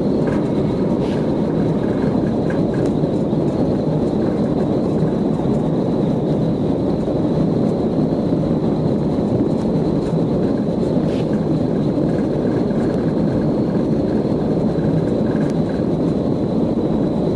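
Steady, loud cabin drone of a vehicle in motion, an even engine-and-travel noise with a faint high whine running through it.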